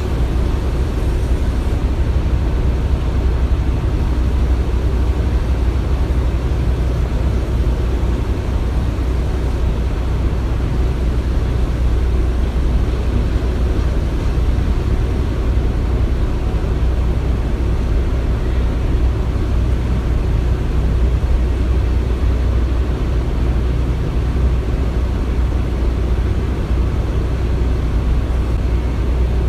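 Steady construction-site machinery rumble: a constant low-pitched drone with a noisy hiss above it, unchanging throughout.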